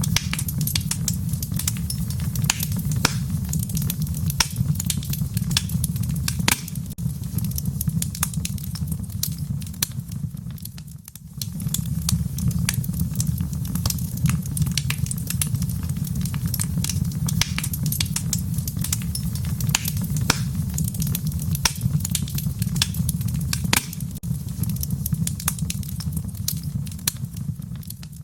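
Wood fire crackling in a fireplace: a steady low rumble of flames with frequent sharp pops and crackles. The sound drops away briefly about eleven seconds in.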